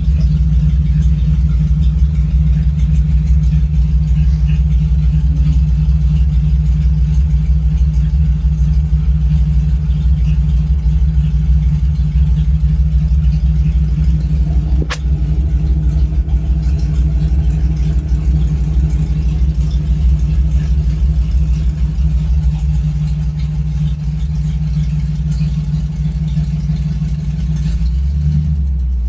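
Ranger truck's engine idling steadily through a freshly built exhaust: headers into a 2.5-inch collector, then a straight 3-inch pipe. A single sharp click sounds about halfway through.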